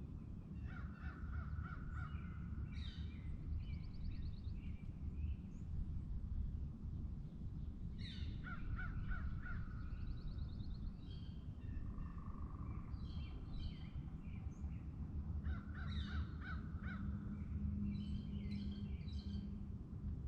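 Birds calling in several bursts of quick repeated notes over a steady low outdoor rumble.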